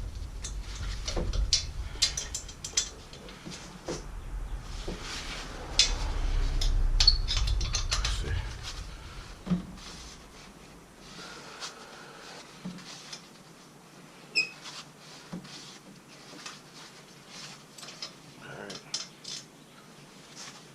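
Hand ratchet wrench clicking as it loosens the bolts that hold an exhaust downpipe to a turbocharger housing, mixed with metallic clinks of the tool on the bolts. Dense clicking for the first half, then sparser, quieter clicks.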